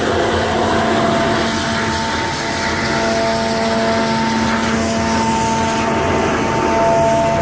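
Vacuum truck and wash truck running together during hydro excavation: a loud, steady machine noise with a few steady whining tones over it.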